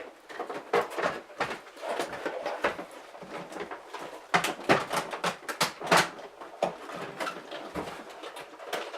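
A toy's boxed packaging being handled and worked apart: irregular crackling of plastic and cardboard with sharp clicks, busiest and loudest a little past the middle.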